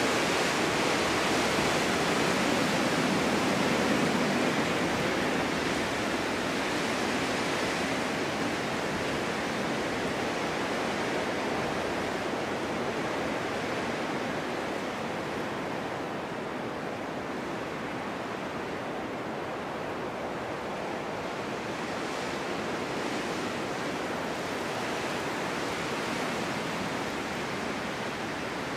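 Winter storm wind blowing snow, a continuous rushing noise that is strongest over the first few seconds and then eases a little.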